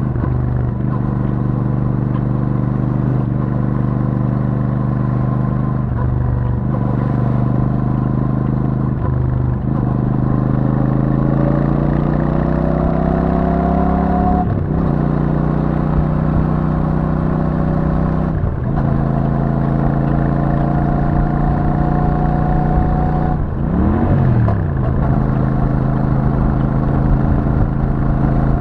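Royal Enfield Super Meteor 650's 648 cc parallel-twin engine through its stock exhaust, heard onboard while riding. It runs at low revs, then climbs in pitch under acceleration with brief breaks between gears. Near the end it gives a quick rise and fall in revs before settling back to a steady cruise.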